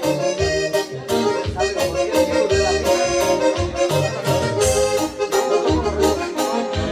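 Live band playing an instrumental break: an accordion-voiced lead melody over pulsing bass and a steady drum beat.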